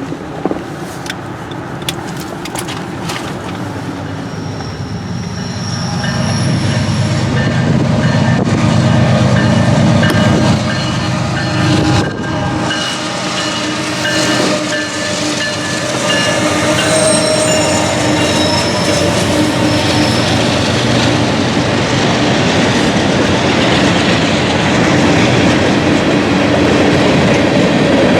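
Freight train passing close by: a steady rolling rumble with wheels clicking over the rail joints. It grows louder about six seconds in and stays loud to the end.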